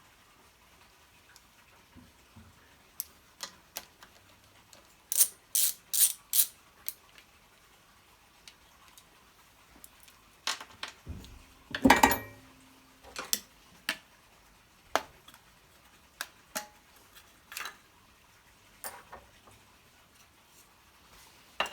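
Irregular metallic clicks and clinks of hand tools and small parts on an old Honda generator engine being taken apart at its ignition points, with the loudest knock about twelve seconds in.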